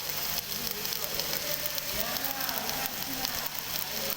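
Electric arc welding: the arc gives a steady crackling sizzle throughout.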